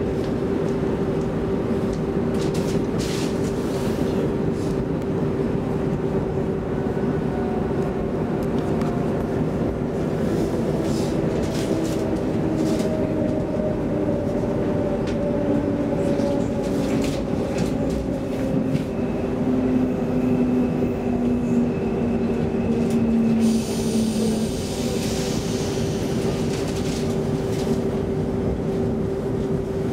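Inside a Stockholm X10 electric commuter train running on the line. There is a steady hum, and a whine that falls slowly in pitch through the middle of the ride. Scattered clicks can be heard from the wheels and track, and a high hiss comes in near the end.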